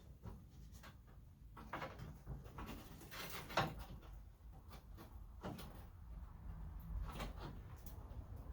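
Small scattered clicks, taps and brief scrapes of hands handling a headlight and its wiring, with one sharper knock about three and a half seconds in.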